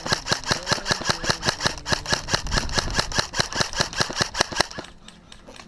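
Airsoft replica firing a rapid string of shots, about seven a second, that stops shortly before the end.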